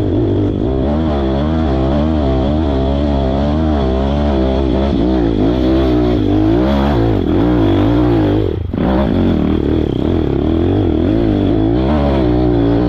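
Pit bike's small single-cylinder engine revving up and down without a break as it is ridden over rough trail. The revs drop briefly about two-thirds of the way through.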